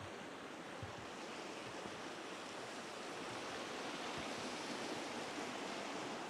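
Steady rushing outdoor noise, growing slightly louder through the middle and later part, with a few faint low knocks.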